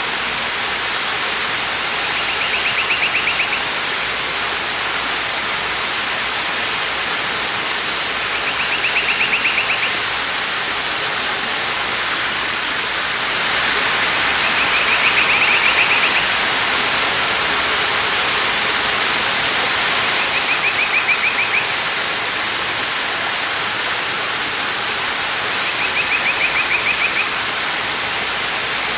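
Steady rush of a waterfall, swelling a little midway, with a bird's rapid high trill repeating five times, about every six seconds, and a few faint higher chirps.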